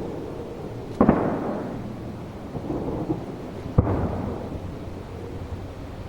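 Aerial firework shells bursting: two sharp booms, about a second in and near four seconds in, each trailing off in a long rolling echo over a steady low rumble.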